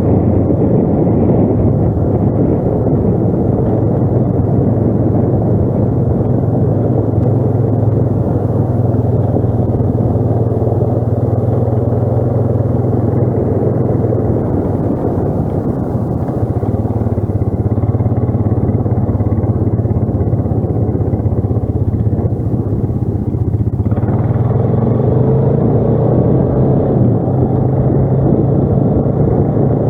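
ATV engine running steadily while riding, a continuous drone. About 24 seconds in, the sound brightens and the engine note rises a little.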